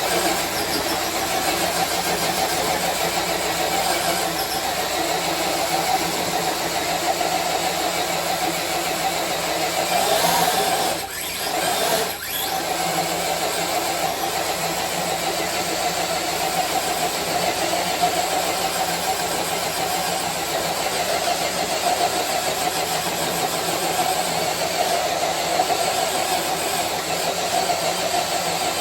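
Redcat Gen 8 RC crawler truck's electric motor and geartrain whining steadily under load as it pulls a weighted sled, with two brief dips about eleven and twelve seconds in.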